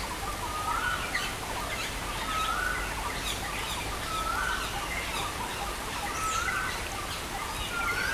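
Birds chirping and singing over a steady hiss of rain. One bird repeats a short rising call about every two seconds, with scattered higher chirps from others.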